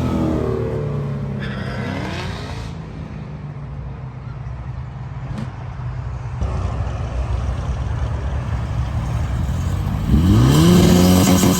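Car engines running at low revs with a steady low drone. About two seconds in, one engine's note rises briefly, and near the end another car accelerates hard, its engine note climbing and getting louder.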